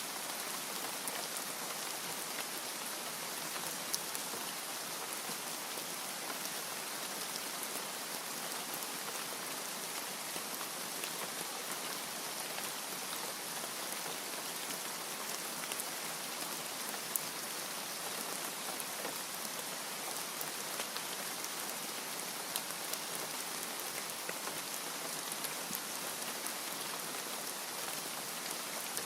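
Steady rain falling, an even hiss with scattered sharp drop ticks hitting a surface.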